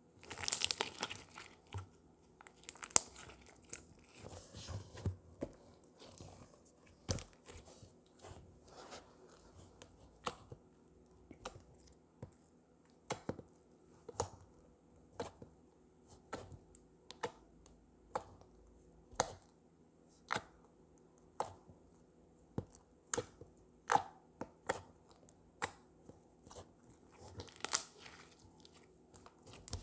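Slime being worked by hand. A crackly stretch and squeeze at the start gives way to a run of sharp pops and clicks about once a second, with another crackly burst near the end.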